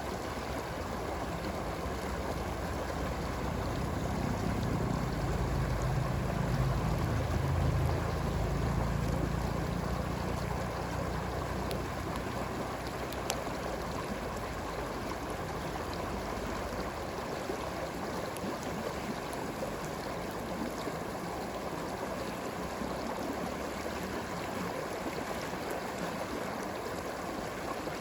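Stream water flowing steadily, with a few faint campfire crackles. A low rumble swells a few seconds in and dies away by about eleven seconds in.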